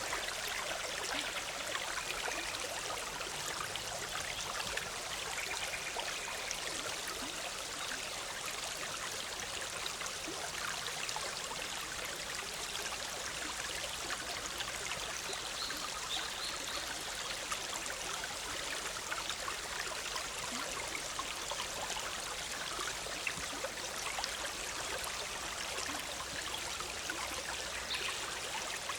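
Big Sur River flowing and bubbling over rocks in a steady rush of water, with a few faint bird calls now and then.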